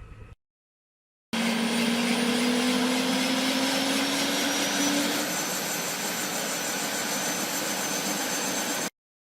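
Helicopter turbine and rotor noise, loud and dense, with whining tones that rise slowly in pitch. It starts abruptly about a second in and cuts off sharply near the end.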